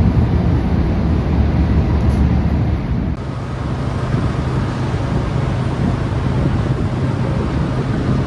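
Busy city street traffic noise with wind buffeting the microphone. The ambience changes abruptly about three seconds in.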